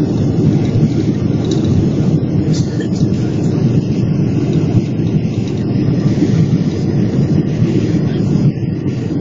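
Boeing 777-300 heard from inside the cabin during landing: a loud, steady low rumble of engines, airflow and runway.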